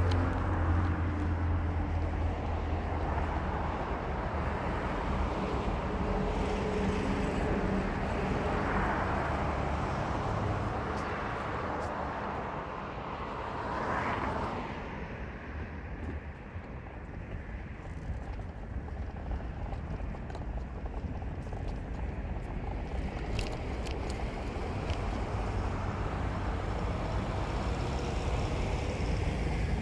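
A car being driven, with steady engine and road noise. A louder swell rises and falls about halfway through, then the noise settles a little lower.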